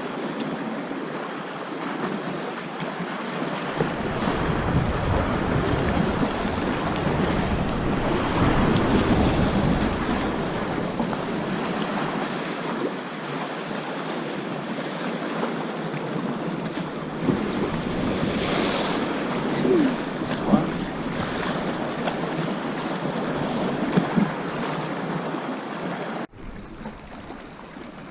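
Sea water washing and splashing around a sea kayak, with wind buffeting the microphone; the wind rumble swells for several seconds starting about four seconds in. The sound drops suddenly near the end.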